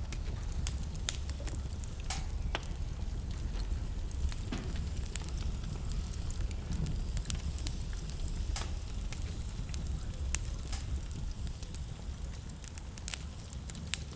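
Wood fire burning in a fireplace: a steady low rumble of flame with irregular sharp crackles and pops scattered throughout, a few louder snaps among them.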